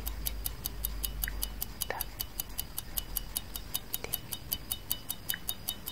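Clock-style tick-tock sound effect: sharp, even, high-pitched ticks at about five a second.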